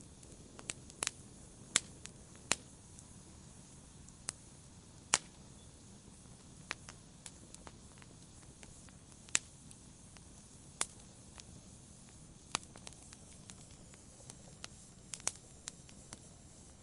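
Wood fire burning in a fireplace, crackling: sharp irregular pops and snaps over a low, steady hiss of the flames.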